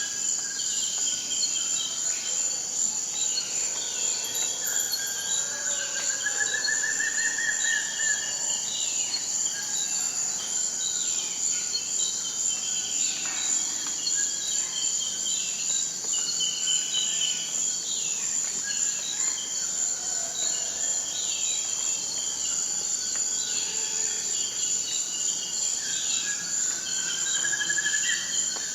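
Forest ambience: a steady high-pitched insect drone with many short, falling bird chirps throughout, and a rising trilled bird song twice, about seven seconds in and near the end.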